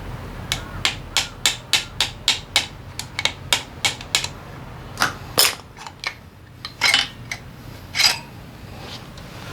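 Hand tools working on a Honda PCX 125 engine during teardown: a run of sharp metallic taps at about three or four a second, then a few louder, irregular knocks of metal parts.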